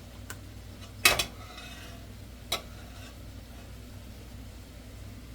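Sharp clinks of kitchen utensils against a cooking pot: a quick double clink about a second in and a single one about a second and a half later, over a low steady hum.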